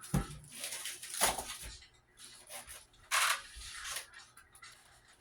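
Kitchen handling sounds as seasoning containers are picked up and used on steak: a low knock at the start, scattered light rustles and clicks, and a short hissy rattle about three seconds in.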